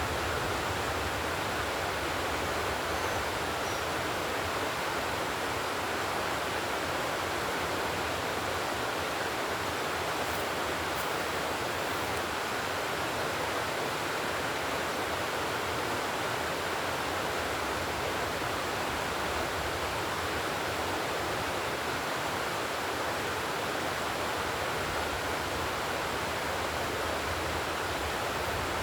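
Steady, even rushing noise, like running water.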